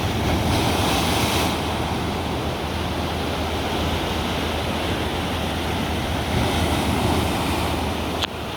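Ocean waves breaking and washing ashore, a continuous rush of surf with a louder surge about a second in. A short click comes near the end.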